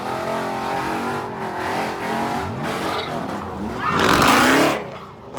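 Car engines revving hard at a street takeover, with tyres squealing. The pitch rises about halfway through, and the loudest burst of engine and tyre noise comes about four seconds in before dropping away.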